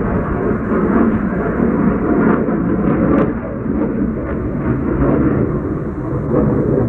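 Airplane engine noise overhead, a loud steady rumble.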